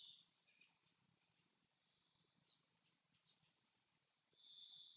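Faint forest birdsong: a few short, high chirps about halfway through, then a longer buzzing trill near the end.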